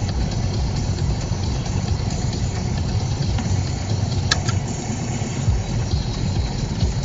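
Steady low rumble of a car's engine, heard from inside the car's cabin, with one short click about four seconds in.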